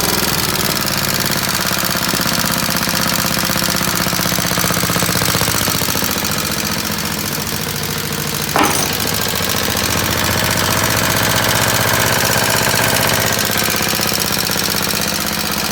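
Mid-to-late 1940s Clinton small four-stroke engine running with a fast, even firing beat, its speed wavering slightly. A single sharp crack about halfway through.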